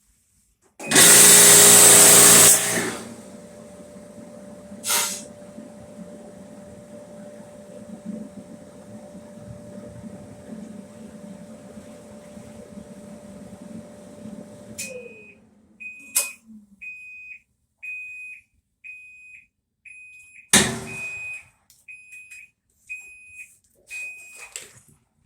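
Maytag electric dryer running with a steady hum after a loud two-second rush at the start, then winding down with a falling tone, followed by a high beep that repeats about every 0.7 s and a sharp click partway through.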